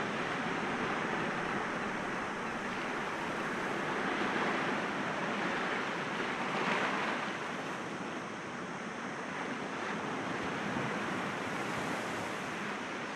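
Sea waves washing against rocks in a continuous surf, swelling and ebbing gently, with one stronger wash about seven seconds in.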